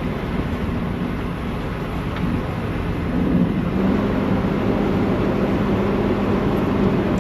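Engine running steadily with a dense, low rumble. About three seconds in, a steady hum comes in and the sound grows a little louder.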